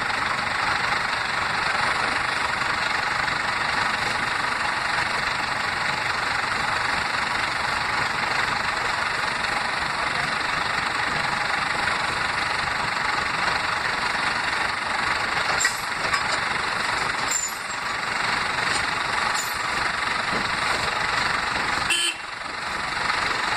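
Heavy vehicle engine running steadily under load, with a few sharp clicks or knocks near the end.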